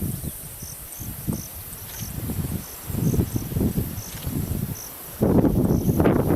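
An insect chirping in short, high pulses, roughly two a second, over gusts of low rumbling noise that get much louder about five seconds in.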